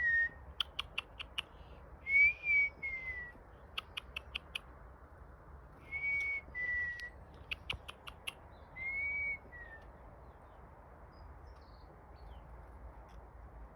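A two-note whistled bird call used to summon garden birds: a held high note that slides down into a shorter, falling lower note, heard three times. Quick runs of sharp ticks come between the whistles.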